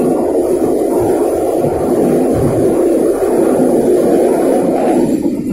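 Passenger train running across a steel truss bridge: a loud, steady rumble of wheels on the bridge deck, easing off near the end as the train comes off the bridge.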